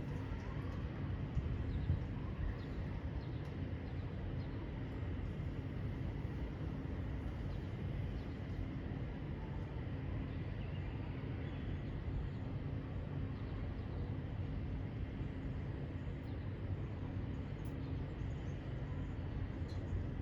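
Outdoor recording of a steady low rumble with faint bird calls above it.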